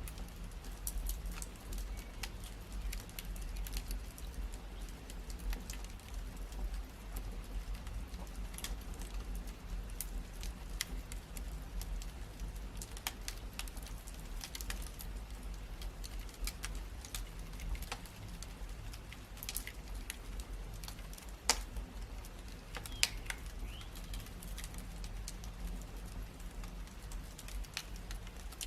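Wood fire crackling in a fireplace: irregular sharp pops and snaps over a steady low rumble, with two louder pops a little past the middle.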